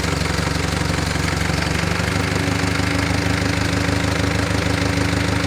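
Moshito 25 kVA water-cooled diesel generator running steadily. About two seconds in, a steady higher hum joins the engine note.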